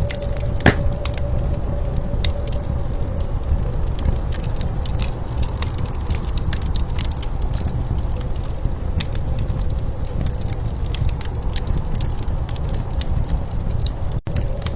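Wood fire crackling with frequent small pops, over a steady low rumble of blizzard wind.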